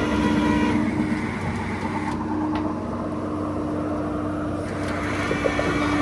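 A vehicle engine running steadily, a low rumble with a constant hum.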